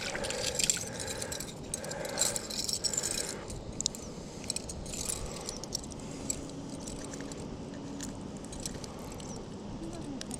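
Scattered light clicks, rattles and scrapes over a faint steady background, busiest in the first few seconds.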